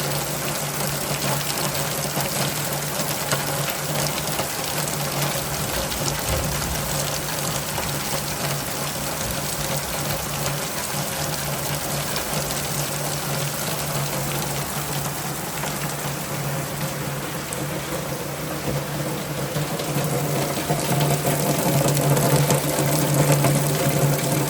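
Steady rain with water running and gushing, over a constant low hum. The hum and the overall level grow stronger near the end.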